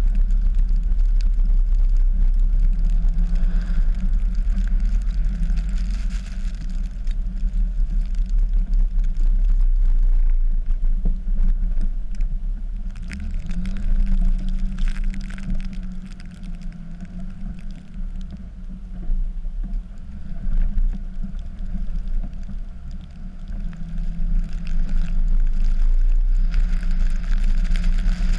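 Dodge pickup's Cummins inline-six turbo-diesel running under load while plowing snow, a steady low drone. Midway it eases off for several seconds, then comes back up near the end.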